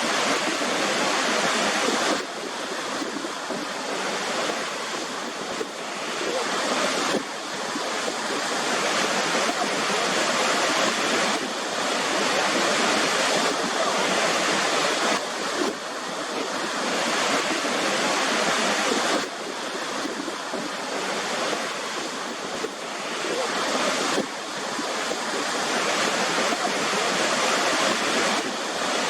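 Waterfall: rushing water as a steady wash of noise, its level stepping up or down suddenly every four to five seconds.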